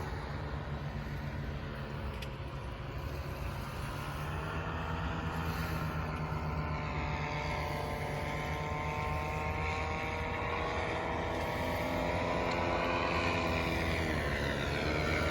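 An engine running steadily over a low hum, its pitch slowly rising and then dipping near the end.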